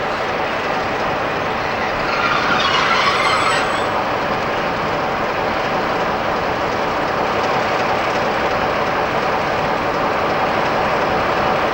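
A freight train rolling past on the rails, a steady rumble of wheels and wagons, with a brief harsher, brighter patch about three seconds in.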